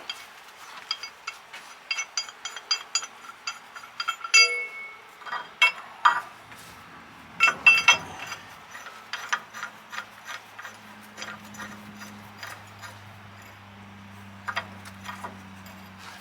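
Steel tie-down chain and shackles being handled, with many sharp metallic clinks and rattles. About two-thirds of the way in a low, steady hum sets in underneath.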